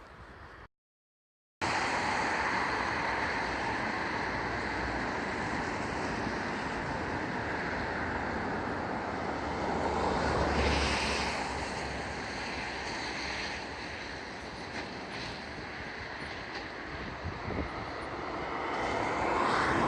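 A vehicle driving at speed: steady engine, tyre and wind noise that swells briefly about halfway through.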